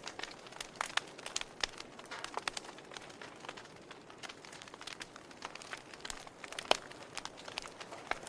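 Campfire crackling: irregular sharp snaps and pops of burning wood over a soft hiss, with one louder pop about two-thirds of the way in.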